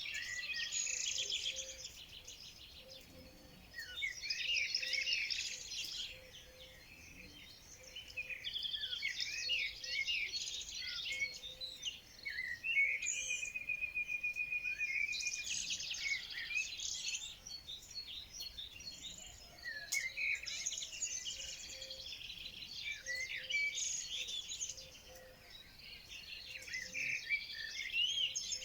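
Several songbirds singing over one another in a chorus of high warbles and chirps that swell and fade every few seconds, with one fast, even trill near the middle.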